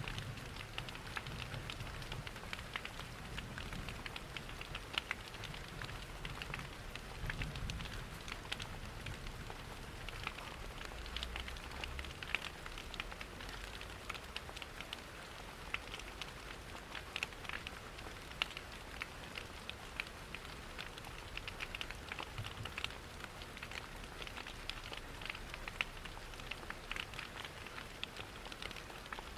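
Rain pattering against windows mixed with a crackling wood fire: a steady hiss full of small, dense ticks and pops. A faint low rumble sits underneath during the first several seconds.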